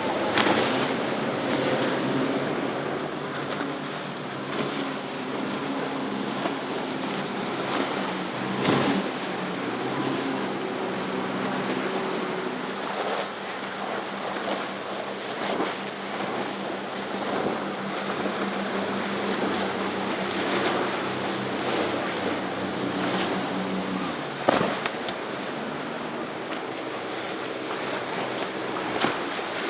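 Outboard-powered fishing boats running past, a steady engine drone with several pitch lines that changes as one boat gives way to the next, over wind noise on the microphone and waves.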